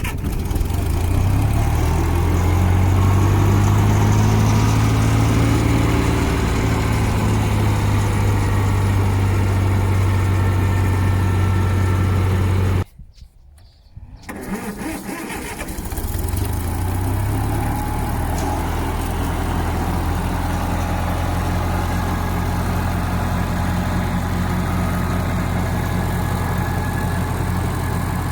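Massey Ferguson 35 tractor with a 2-litre Ford petrol engine running steadily. The sound breaks off for about a second and a half near the middle, then the engine runs steadily again.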